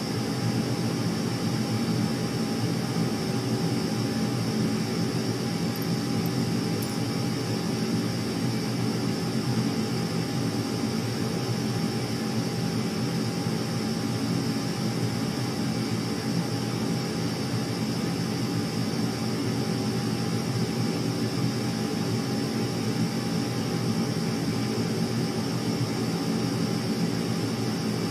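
Steady, unchanging drone of aircraft engine noise with a faint constant whine above it.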